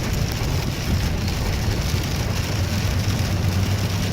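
Steady drone inside a Ford driving in a thunderstorm: low engine and road rumble with the hiss of rain on the car.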